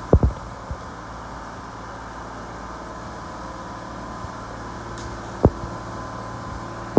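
125B excavator's diesel engine running steadily. Sharp knocks come just after the start and again about five and a half seconds in.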